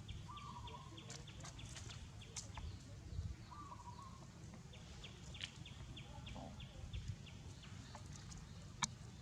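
Outdoor animal calls: a short call repeating about every three seconds and runs of rapid ticking at about four a second, with a few sharp clicks over a low rumble.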